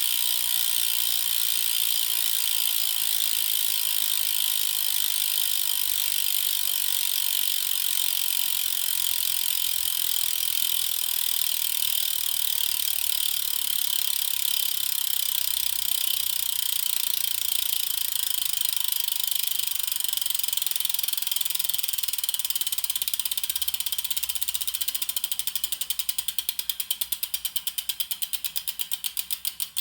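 Hubsmith bicycle hub's freehub coasting: a fast, continuous buzz of the pawls clicking over the ratchet ring. Near the end it slows into separate clicks spaced further and further apart as the spinning wheel winds down.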